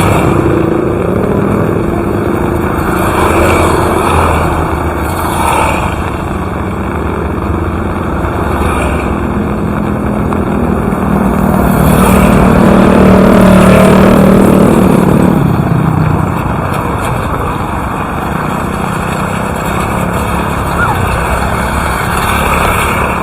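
Steady rain falling, with a motor vehicle engine running under it that grows louder and then fades again about halfway through.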